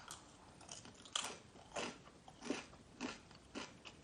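Chewing crunchy fried chicken with a sticky spicy-garlic glaze, the crisp coating crunching about every half second from about a second in.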